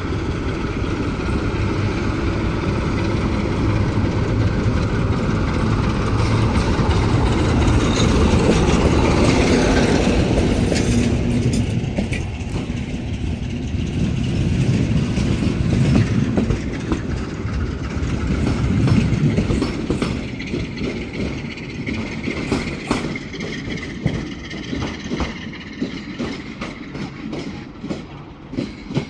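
Class 060-DA diesel-electric locomotive hauling a departing passenger train: its engine running loudly through the first half, then the coaches' wheels clicking over rail joints, fading near the end.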